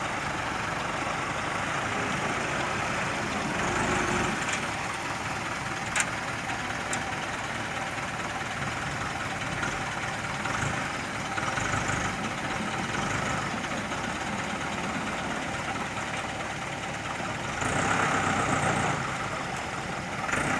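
A heavy truck engine running steadily, swelling louder briefly about four seconds in and again near the end, with one sharp click about six seconds in.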